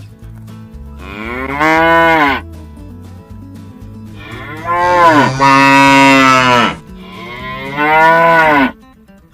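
Cow mooing three times: a moo about a second in, a longer, louder one from around the middle, and a shorter one near the end, each rising and then falling in pitch.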